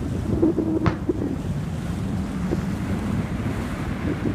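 Wind buffeting the microphone over a steady low rumble, with one sharp crack about a second in.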